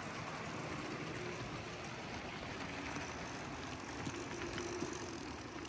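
HO-scale model train running along the track: a steady mechanical running noise from the locomotive and cars, with a faint hum coming in during the second half. The locomotive is a defective one that the owner says needs repair.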